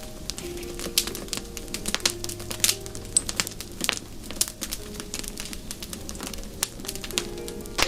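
Wood fire crackling in a fireplace, with irregular sharp pops and snaps of uneven loudness. Soft held tones underneath shift in pitch every second or so.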